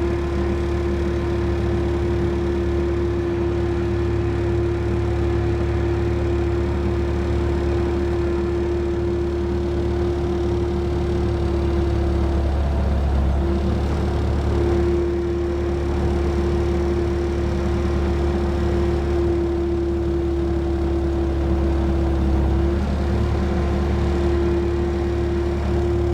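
Steady mechanical hum with a constant mid-pitched tone on top, which drops out briefly a few times.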